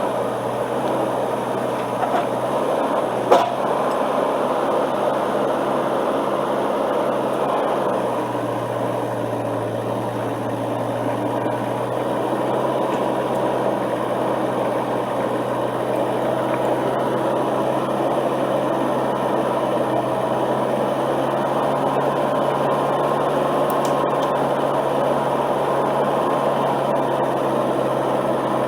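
Excavator engine running steadily, not yet warmed up, with one sharp click about three seconds in.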